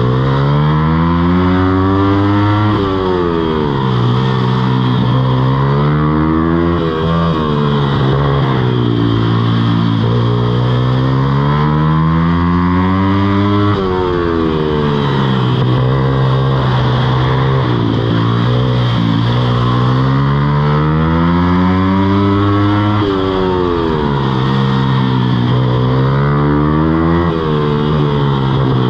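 Mini moto engine revving up and dropping back about five times, its pitch climbing for several seconds before each fall.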